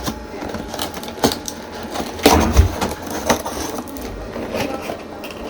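Cardboard box and its packaging being opened and handled: scattered rustles, clicks and knocks, with a louder bump about two and a half seconds in.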